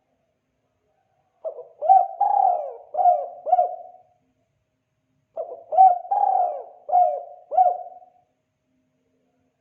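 Spotted dove cooing: two phrases of about five coos each, the second coming about a second after the first ends.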